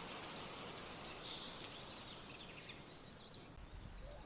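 Faint outdoor ambience: a steady hiss with a few faint bird chirps in the first three seconds. Around three and a half seconds in, the hiss thins out and a low rumble takes over.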